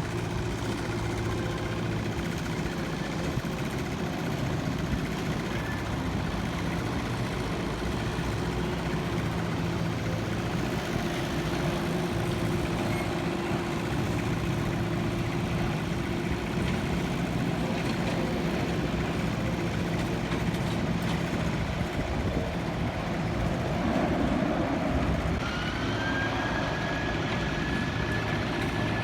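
Jet aircraft engines running with a steady low hum. About 25 seconds in, a high whine rises and then holds steady.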